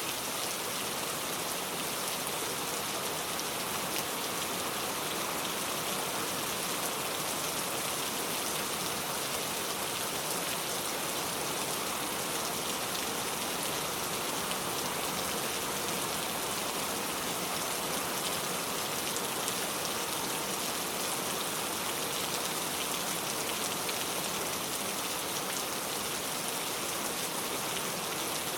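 Steady rain falling: an even, unbroken hiss of many drops that holds at one level throughout.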